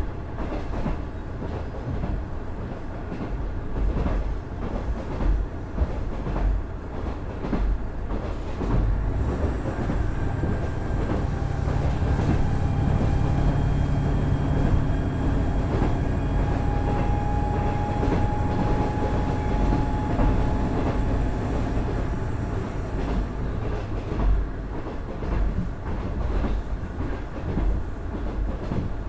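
Cab-interior running sound of a KiHa 110 series diesel railcar: its Cummins DMF14HZA diesel engine drones under the rumble and clicking of the wheels on the rail joints. The engine drone strengthens about nine seconds in, as if working under power, and eases off again after about twenty seconds.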